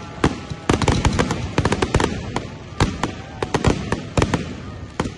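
Fireworks display: aerial shells launching and bursting in quick succession, an irregular string of sharp bangs and crackles, several a second.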